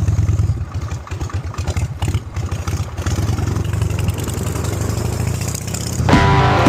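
Harley-Davidson Shovelhead V-twin engine running, a rapid train of low exhaust pulses. Music comes in over it about six seconds in.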